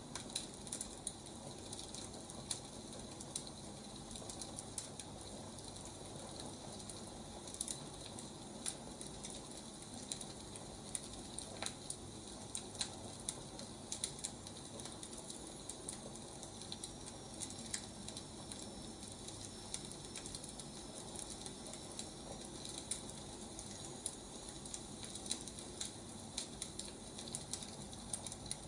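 Burning firewood crackling, with irregular pops and snaps over a steady hiss.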